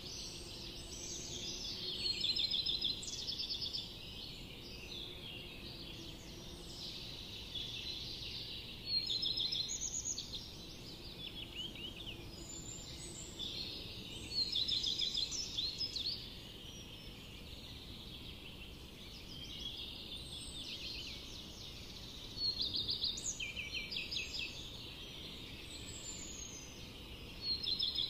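Small birds chirping and twittering in bursts every few seconds, with quick trilled notes, over a steady high background hiss.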